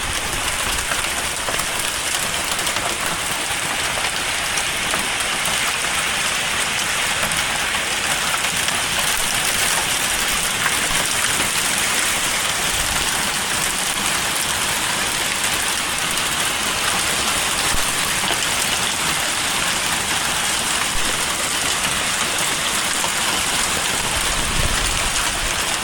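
Hail and heavy rain coming down steadily in a dense, even hiss.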